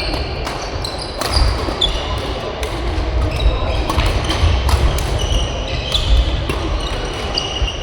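Badminton rally: repeated sharp racket strikes on the shuttlecock, with short high squeaks of shoes on the court floor.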